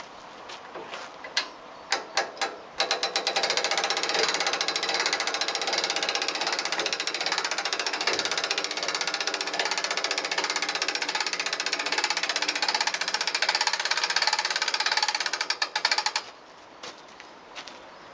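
Rapid, continuous mechanical rattling for about thirteen seconds, like a ratchet or gear mechanism being worked fast. Scattered sharp clicks and knocks come before and after it.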